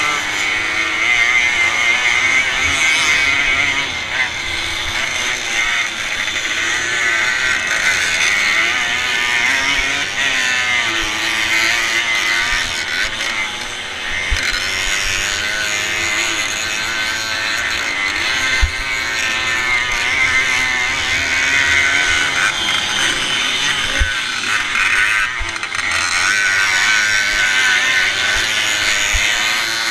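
Onboard sound of a classic motocross bike's two-stroke Fichtel & Sachs engine racing on a dirt track, its revs rising and falling as the rider accelerates and backs off through the turns. A few short low knocks come from the bike landing over bumps.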